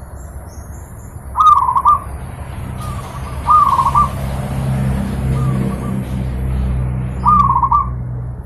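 Zebra dove (perkutut) cooing: three loud, bubbling coo phrases a few seconds apart, with softer coos between them, over a steady low hum.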